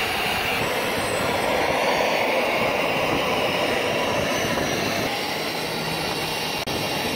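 Steady aircraft engine noise, a rushing drone that eases slightly about five seconds in.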